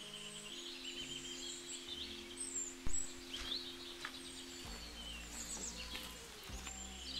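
Small birds chirping and singing over soft background music of held chords, with one sharp click about three seconds in.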